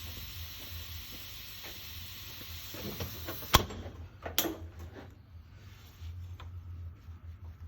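A steady hiss that cuts off with a sharp click about three and a half seconds in, followed by a knock and a few light taps and clinks of workshop handling.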